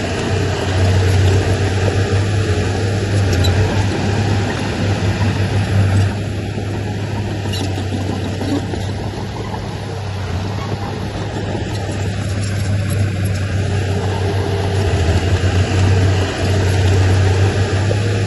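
Heavy diesel earthmoving machinery running under load, with a steady low engine drone. It eases off about six seconds in and works harder again after about fifteen seconds.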